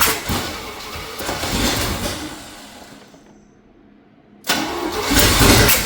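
1984 Chevrolet K20's carbureted engine cranked by the starter in two bursts, the first fading out about two and a half seconds in and the second starting near the end, sputtering without settling into a run. It is fed fuel poured into the carburetor bowl and is suspected of having massive vacuum leaks.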